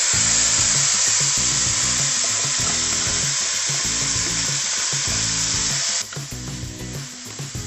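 Pieces of beef shank sizzling in hot oil in a pressure-cooker pot as seasoning is added and stirred in; the sizzle drops off suddenly about six seconds in. Background music plays underneath.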